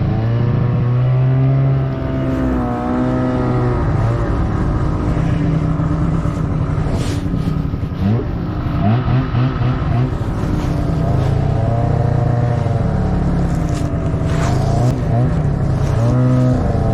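Snowmobile engine running, its pitch rising and falling with the throttle, with a few quick revs about eight seconds in.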